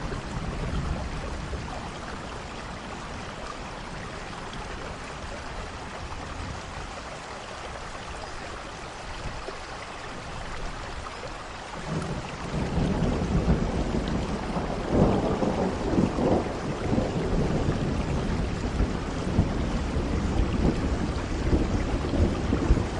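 Steady rainfall, with a roll of thunder that builds about halfway through and rumbles on, loudest a few seconds after it starts.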